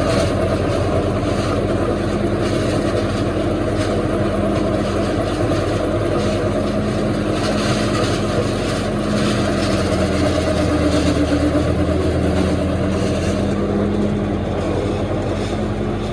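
Silage harvester running steadily: a loud, even engine and machinery hum.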